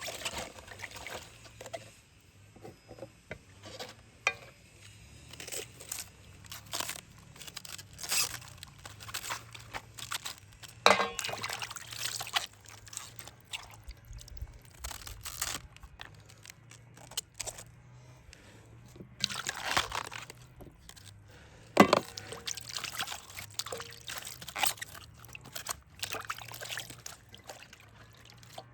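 Liquid pouring, trickling and sloshing, broken by irregular clatters and knocks; a sharp knock about 22 seconds in is the loudest sound.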